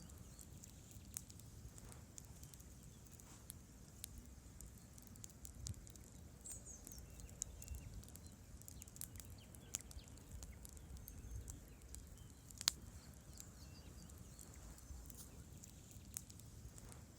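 Wood campfire burning, logs crackling faintly with scattered sharp pops over a low, steady rumble of the flames; one pop about three quarters through is louder than the rest.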